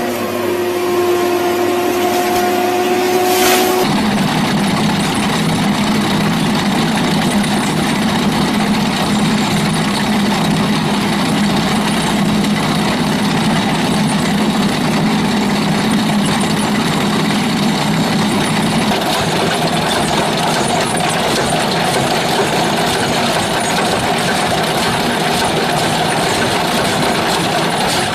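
A heavy machine's engine running steadily under load. The first few seconds hold a steady whine, which gives way abruptly to the louder engine noise about four seconds in.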